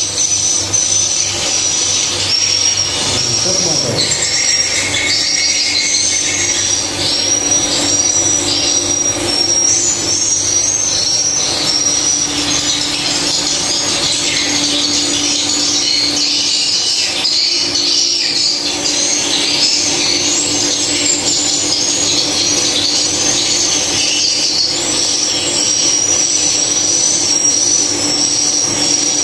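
Edible-nest swiftlets calling inside a swiftlet house: a dense, unbroken chorus of short, high-pitched chirps, with a steady low hum underneath.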